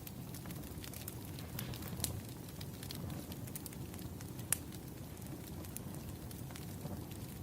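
Wood fire burning: logs crackling with irregular sharp pops over a low steady rumble, one louder pop about four and a half seconds in.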